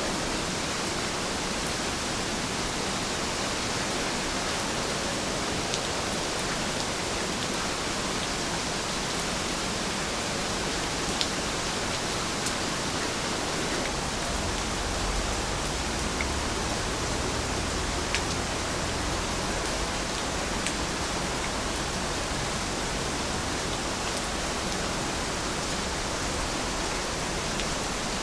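Heavy rain falling in a steady, even rush, with a few sharper drops ticking through it and a brief low rumble about halfway through.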